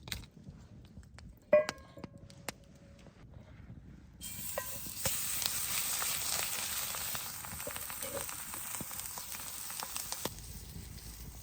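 Food sizzling in a hot pan over a campfire, a steady hiss with many small crackles that starts suddenly about four seconds in and cuts off abruptly near the end. Before it, a single ringing metal clink.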